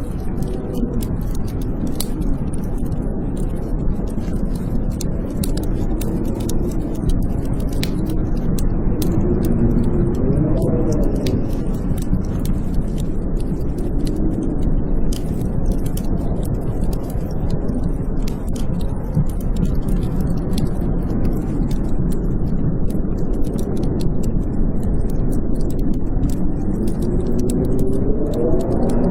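Blizzard wind howling over a steady low rush, its whistling pitch rising and falling in gusts around ten seconds in and again near the end, with a wood fire crackling in light, scattered snaps.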